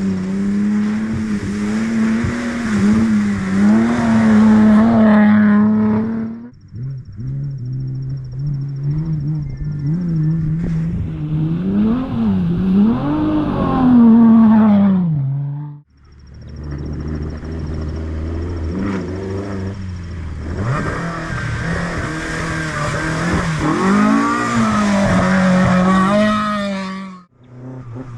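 Classic rally car engines under hard throttle, the pitch rising and falling with throttle lifts and gear changes. The sound cuts off abruptly between three separate passes.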